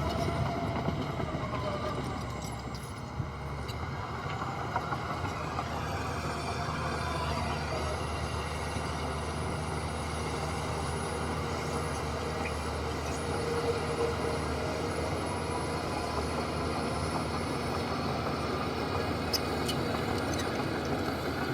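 Heavy diesel earthmoving machinery running steadily, with a constant low engine hum and the noise of working.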